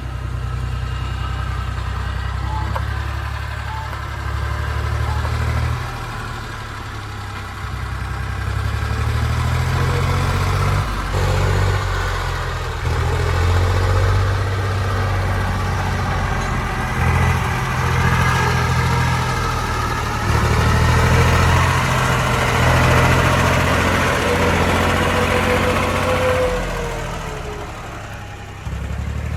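Air-cooled diesel engine of a 1962 Porsche 329 tractor running steadily, its note rising and falling with the throttle, with a brief drop shortly before the end.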